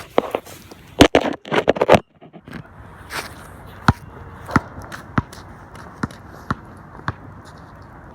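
Basketball being dribbled on an outdoor court, sharp bounces about every two-thirds of a second over a steady hiss. A cluster of loud knocks and rustles comes about a second in.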